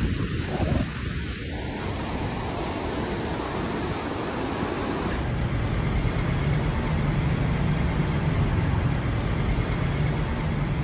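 Loud, dense rushing storm noise from heavy rain and wind. After a cut about five seconds in, a steady low vehicle engine hum runs under it.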